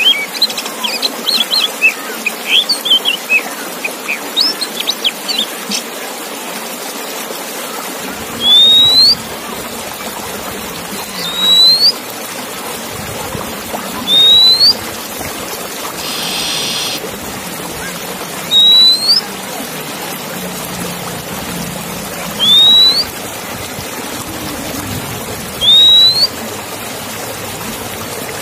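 Songbird song from a masteran (song-tutor) recording for male oriental magpie-robins: a quick run of varied chirps, then a loud rising whistle repeated about every three seconds, with one short buzzy note in between, over a steady hiss.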